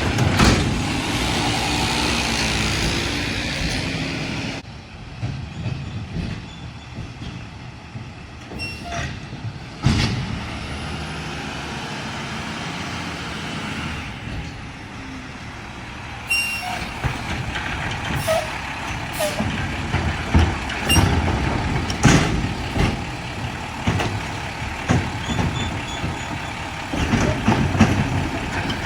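Mack LR garbage truck with a McNeilus body at work. It opens with a loud air hiss of a few seconds, then comes a quieter stretch of engine noise. From a little past the middle there is a run of sharp metal bangs and clanks.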